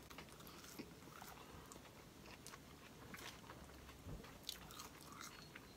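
Faint chewing of French fries, with a few soft mouth clicks here and there.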